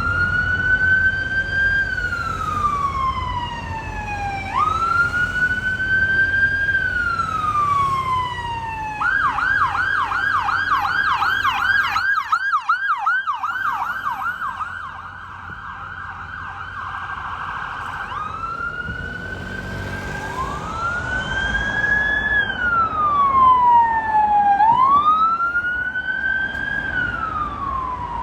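A London emergency vehicle's siren sounding while it drives: a slow wail rising and falling, switching to a fast yelp for about nine seconds, then back to the wail. Road and engine rumble sits underneath.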